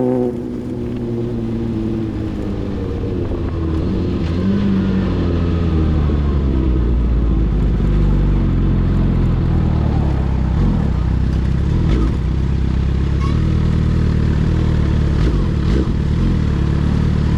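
Sport motorcycle engine whose revs fall over the first few seconds, then settle into a steady low-rev rumble.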